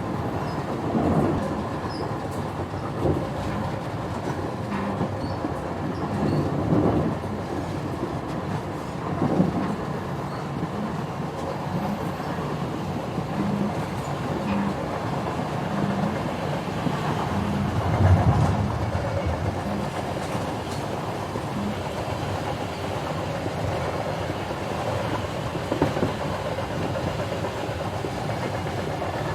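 Steady rumbling ride noise of a moving vehicle, with a soft regular knock a little more than once a second through the middle.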